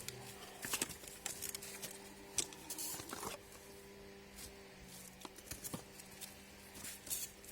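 Scattered light clicks and rustles of small objects being handled, over a faint steady hum.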